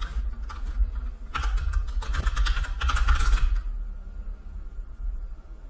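Typing on a computer keyboard: a run of key clicks that stops about three and a half seconds in, over a steady low hum.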